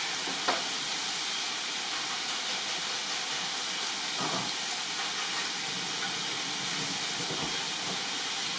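Chicken tikka masala frying in a pan, a steady sizzling hiss, with a light short tap about half a second in.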